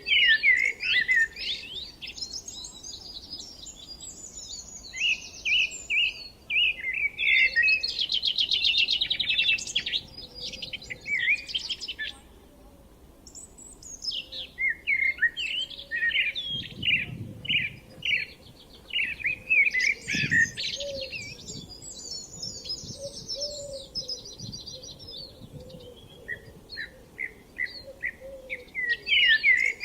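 Songbirds singing and chirping in long, busy trilling phrases, with a short lull about halfway through.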